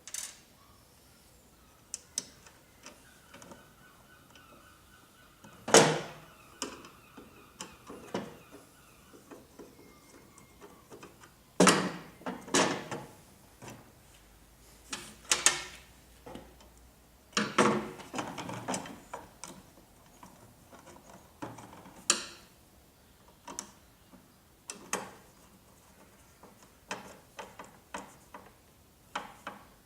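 Irregular knocks, clicks and clatters of hand assembly work: screws, a screwdriver and a spanner on metal and plastic parts as a dust extractor hood is fixed onto a router table's fence with flathead screws and nuts.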